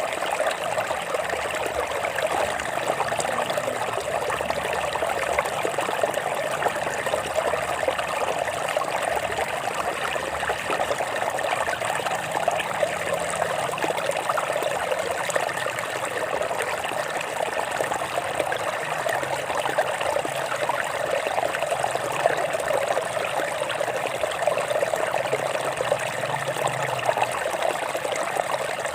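Stream water flowing and trickling over rocks, a steady babble with no breaks.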